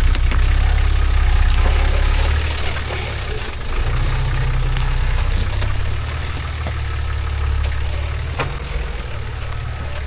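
Off-road truck engine running at low revs while crawling over rocks, a steady low rumble that rises and falls slightly, with scattered sharp clicks and knocks.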